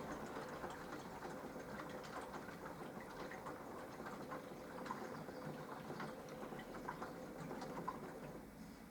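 Minicolo mini washing machine running a wash: a steady motor hum with water swishing and many small irregular ticks. The motor hum stops near the end.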